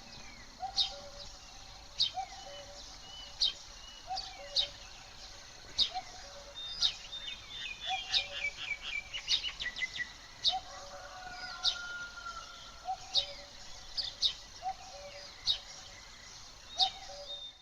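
Birds calling: a sharp high chirp repeating every second or so, a lower two-note call repeating alongside it, and a quick trill about halfway through.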